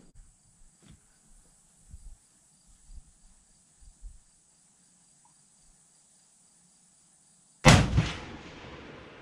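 A single loud rifle shot from a Remington 700 bolt-action hunting rifle, fired once near the end, with its report dying away over about a second.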